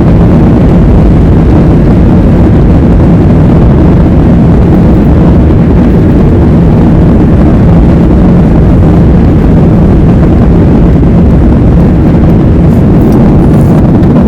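Tour helicopter running, a loud steady drone of engine and rotors heard from inside the passenger cabin.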